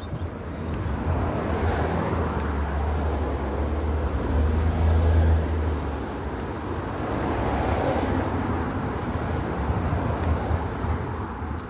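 Motor vehicles passing on a road, swelling and fading as they go by, with a deep engine rumble through the first half.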